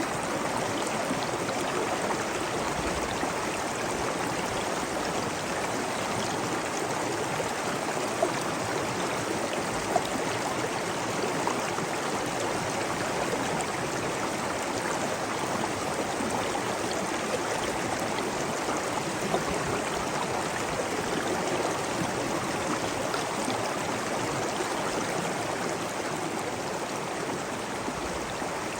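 Steady rushing of flowing water, with a few faint splashes standing out here and there.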